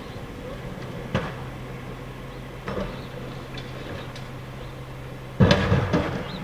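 Garbage truck on a trash collection route: its engine runs steadily under two sharp knocks, then a loud bang near the end.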